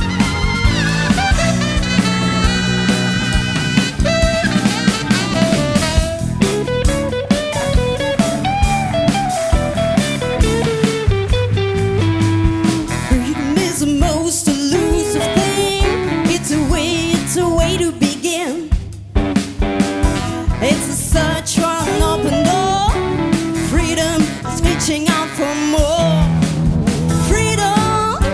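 Jazz-rock band playing live: drum kit, bass, guitar and keyboards under a lead melody line that bends up and down. The band drops out briefly about two-thirds of the way through, then comes back in.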